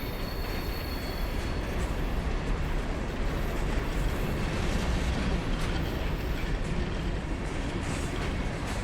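Freight train rolling past with a steady rumble and the noise of wheels on rail.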